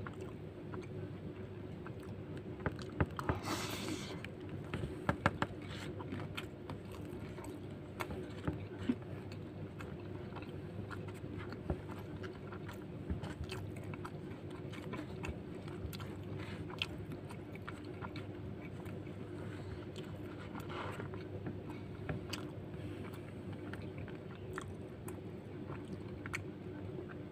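Close-up chewing and biting of a mouthful of nasi lemak rice with fried cow lung. Sharp clicks are loudest and most frequent in the first third, and a spoon scrapes on the paper wrapper as more is scooped up. A steady low hum runs underneath.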